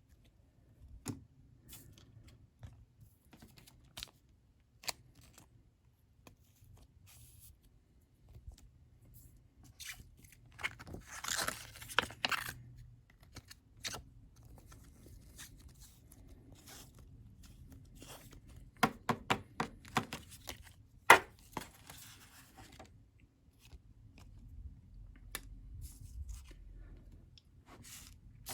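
Trading cards and their plastic packaging being handled: rustling and sliding plastic with scattered small ticks and taps, busiest about ten to thirteen seconds in and again with sharper taps around twenty seconds.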